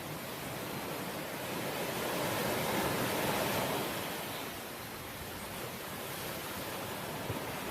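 Sea waves washing in: a steady rush of surf that swells to a peak about three seconds in, then eases off.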